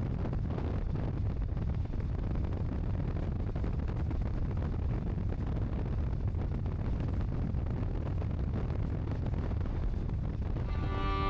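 Motorcycle riding at speed: a steady low engine rumble under wind noise on the microphone. Music comes in near the end.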